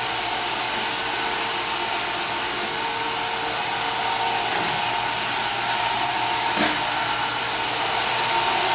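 Roomba robot vacuum running, a steady motor hum and whine, with one brief knock about two-thirds of the way through.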